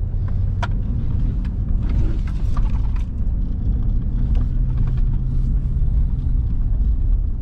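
Car driving slowly over a rough dirt trail, heard from inside: a steady low engine and tyre rumble with scattered small knocks and rattles.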